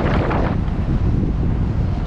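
Wind buffeting the microphone of a moving cyclist, a loud, steady rumble, with a brief burst of hiss in the first half second.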